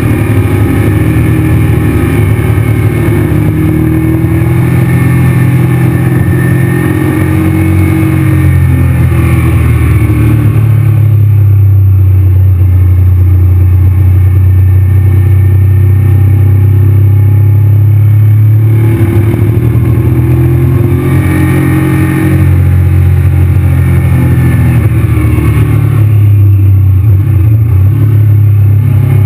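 Honda VTR1000 V-twin engine running under way, heard from on the bike. Its note shifts with the throttle through the bends, holds steady for several seconds in the middle, and changes again near the end.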